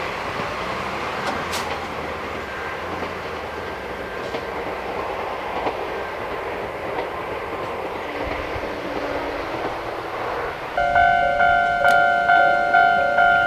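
Electric train running along the track with a steady rumble and some clickety-clack. About eleven seconds in, a warning bell starts suddenly and rings at about two strokes a second; it is louder than the train, in the manner of a Japanese level-crossing alarm.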